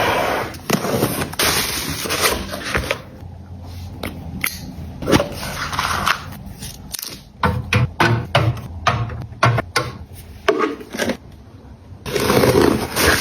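Hands handling and setting down packaged items and containers: rustling packaging, then a run of sharp clicks and taps, several a second in the middle stretch, with more rustling near the end.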